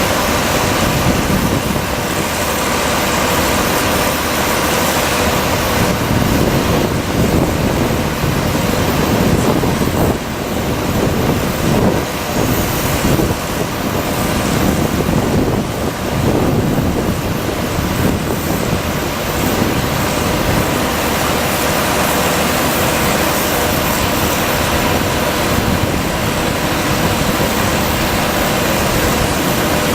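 Truck-mounted fog cannon running: a steady, loud rush from its fan and engine as it sprays mist, with a faint steady hum running through it.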